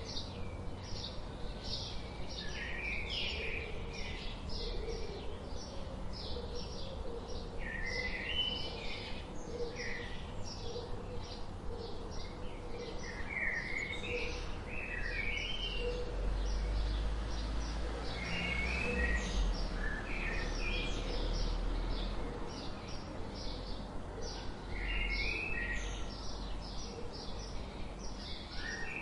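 Birds chirping: a quick, steady series of short high chirps, with a warbling phrase breaking in every few seconds, over a low rumble that swells in the middle.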